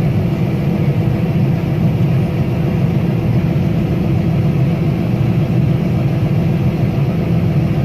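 Combine harvester running steadily while shelling corn: an unbroken, loud, low machine noise of engine and threshing works.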